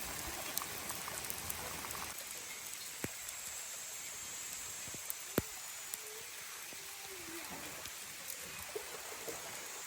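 Steady rain falling, an even hiss with a few louder single drops striking. A low rumble underneath stops about two seconds in.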